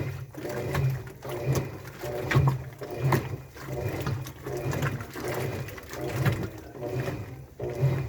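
Washing machine running, its low motor hum swelling and fading in a rough rhythm of one to two pulses a second, with noisy surges as the drum turns its load.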